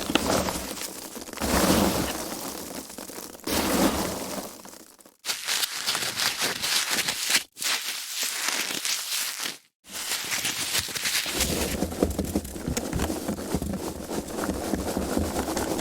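Foam packaging being handled, squeaking and crackling as it is rubbed and squeezed, in several stretches broken by brief silent gaps.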